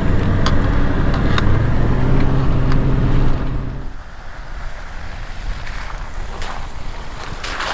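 Off-road vehicle engine running steadily while driving on a snowy track, with a low drone that eases slightly about two seconds in. About three and a half seconds in the drone drops away, leaving a quieter wind-like hiss with occasional light clicks.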